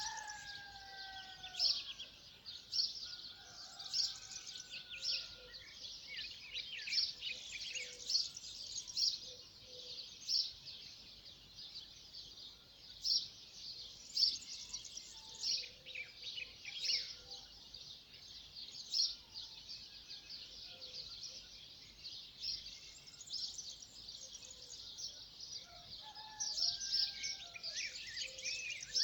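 Small songbirds chirping and singing together, a busy run of quick high chirps repeating every second or so throughout, with a lower, falling whistled call near the start.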